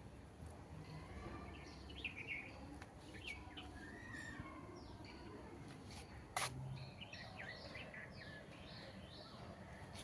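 Small birds chirping faintly, a string of short, falling chirps coming and going, with one sharp click a little past halfway.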